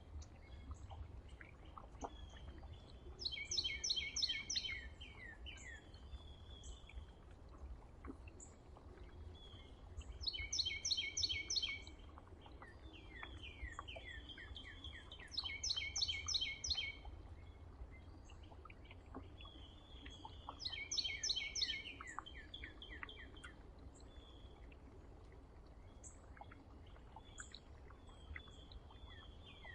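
A songbird singing a short, rapid phrase of repeated notes about every five to six seconds, with scattered chirps between the songs. A steady low rumble runs underneath.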